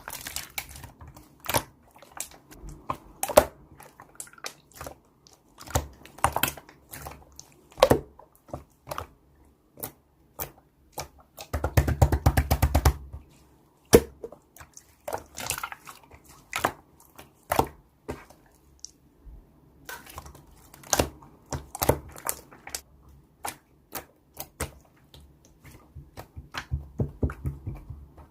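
Slime being squished and poked by hand, giving irregular sticky clicks and pops, with a fast run of pops about twelve seconds in.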